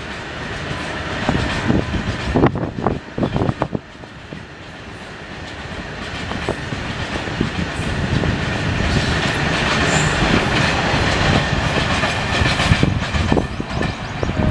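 BOXN open freight wagons rolling past, their wheels clacking in a run of sharp clicks over the first few seconds, then settling into a steady rumble that grows louder toward the end.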